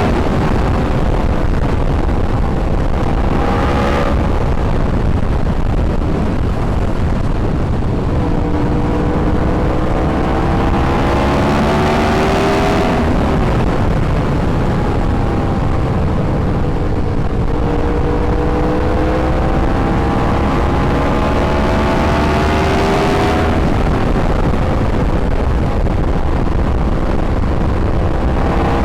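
Yamaha R1 sportbike's inline-four engine under way, its pitch climbing in long pulls and dropping back sharply about four, twelve and twenty-three seconds in, with a slower easing-off in between. A steady low rush of noise lies under it.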